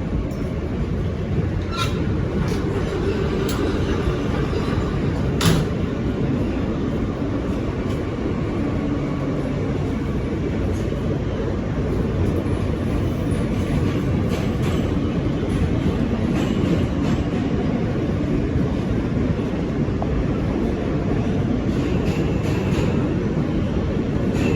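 New York City subway train running between stations: a steady low rumble of wheels on rail, with a few sharp clicks, the loudest about five seconds in.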